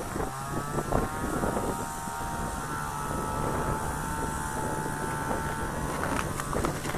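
A small engine running steadily, its whine easing slightly downward in pitch in the first second or two, then fading about six seconds in.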